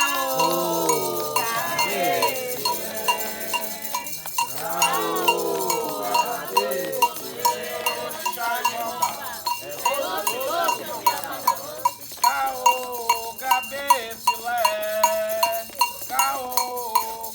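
Voices singing a Candomblé chant to the orixá Ayrá, over a metal agogô bell struck in a steady, even beat.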